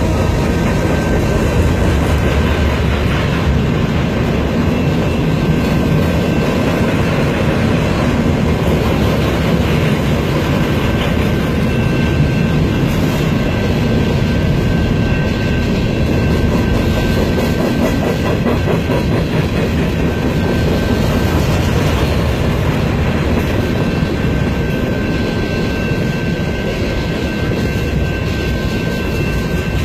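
Freight cars of a long mixed freight train rolling past a grade crossing at speed: a steady loud rumble and clatter of wheels on rail, with a few thin, steady high-pitched tones over it.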